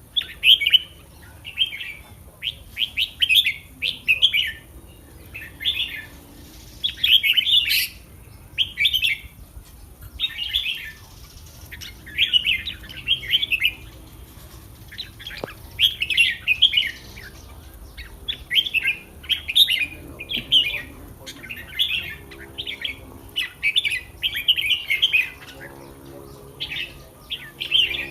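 Red-whiskered bulbul singing: short, bright warbled phrases repeated every second or so with brief gaps between them.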